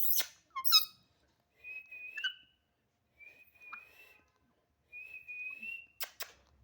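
Pet parrot whistling: three short, even whistles at one high pitch. They follow a couple of harsh, sharp calls at the start, and two sharp clicks come near the end.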